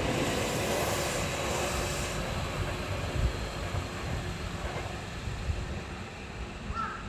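Hankyu 7000 series electric train rumbling away after departure, its noise fading steadily as it recedes. A crow starts cawing near the end.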